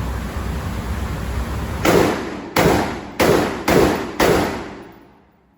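Five shots from a 10.5-inch AR-15 pistol with a Franklin Armory binary trigger, fired in semi-automatic, each a sharp crack with a short ringing tail, coming about half a second to 0.7 s apart and starting about two seconds in.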